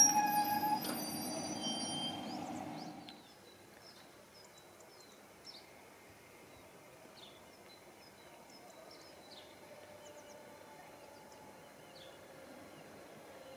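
Rhaetian Railway ABe 8/12 Allegra electric railcar passing close, with several high steady squealing tones that fade over about three seconds. It then cuts to quiet with faint bird chirps, and near the end the low hum of another Allegra approaching slowly grows.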